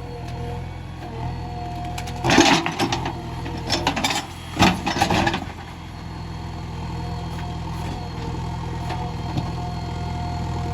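Diesel engine of a JCB 3DX backhoe loader running steadily, with three short loud bursts of clatter between about two and five seconds in.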